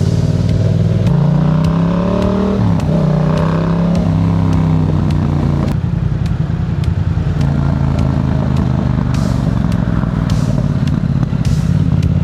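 Yamaha MT-07's 689 cc parallel-twin engine through an aftermarket Black Widow exhaust, pulling hard. The revs climb, drop sharply at a gear change about two and a half seconds in, and climb again. About six seconds in it settles to a steadier, lower note as the throttle eases.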